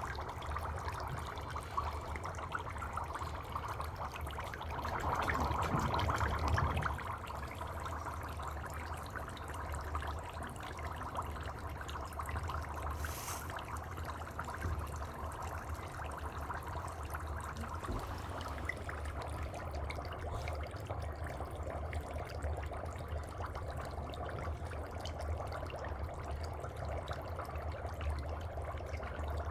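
Dry ice bubbling in water: a steady watery fizzing and burbling, swelling louder for about two seconds around five seconds in.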